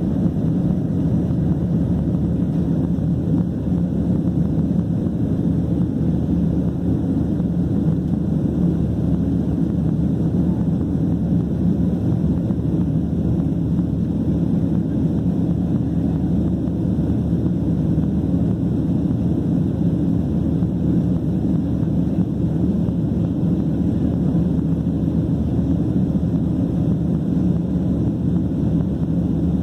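Steady low roar of jet engines and rushing air heard inside the cabin of a Southwest Airlines Boeing 737 in flight, with no change in pitch or loudness.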